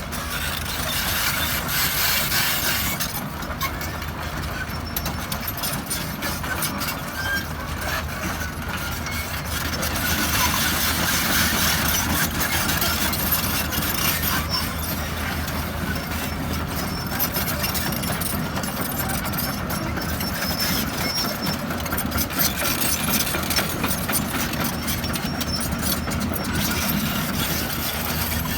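Hydraulic excavator's diesel engine running steadily, with a low, even drone.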